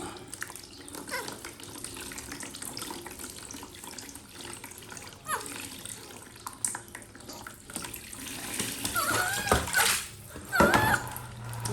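Tap water running steadily into a bath during a baby monkey's wash. Near the end, two short high-pitched calls that bend up and down are heard above the water.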